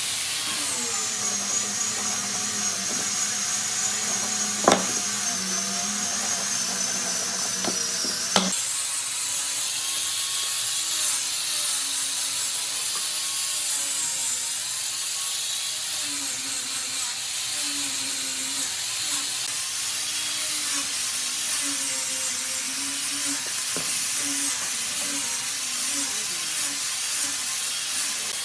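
Power tools working wood. A steady whine with a few sharp clicks breaks off abruptly about eight seconds in and gives way to a tool running whose pitch dips and rises as it is pushed into the wood.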